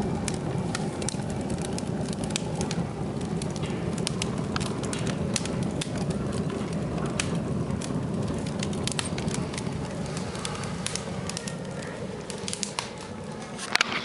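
Wood fire burning in a fireplace: a steady low rumble of the draft, with frequent crackles and pops and a sharper snap near the end.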